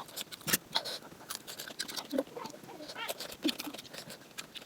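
Close-miked eating: wet chewing and mouth clicks from a mouthful of momo and chatpate, a quick irregular run of small smacks and crunches.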